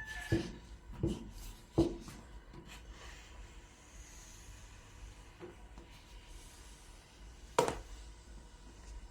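A few sharp knocks of objects being handled, three in the first two seconds and the loudest one near the end, over faint rubbing.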